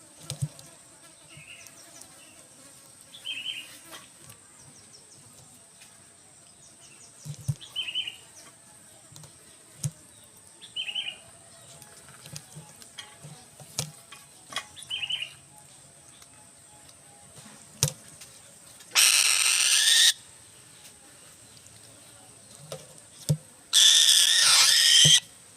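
Falcon giving short, high calls every few seconds, with soft knocks between them. Later come two loud, harsh bursts, each about a second long.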